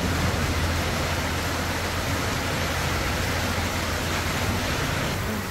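Heavy rain pouring down with runoff water rushing, a steady hiss with a steady low hum underneath.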